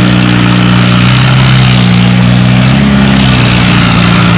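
A vintage farm tractor engine running steadily close by, its pitch rising briefly about three seconds in before settling back.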